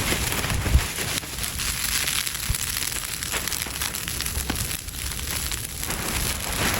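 Irregular crackling and rustling noise over a low, gusting rumble of wind on the microphone.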